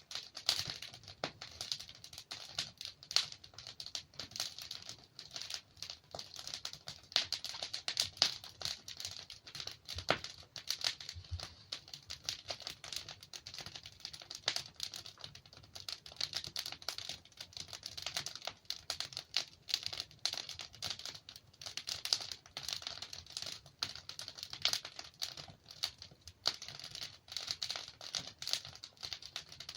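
Wood fire crackling steadily: burning logs giving off a dense run of small irregular snaps and pops over a soft low hiss.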